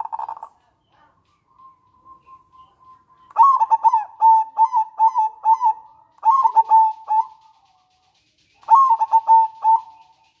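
Zebra dove (local perkutut) singing its cooing song. It opens with the tail of a fast rattling trill (the nretek), then gives three phrases of quick, clipped coo notes (the manggung), each phrase a rapid string of notes.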